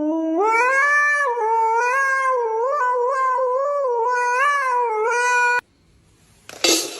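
A pet's long, wavering howl or yowl that rises and falls in pitch without a break for about five and a half seconds, then cuts off abruptly. A sudden loud noisy burst comes near the end.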